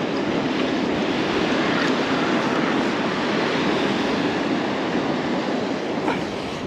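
Steady rushing noise of surf and wind on the shore.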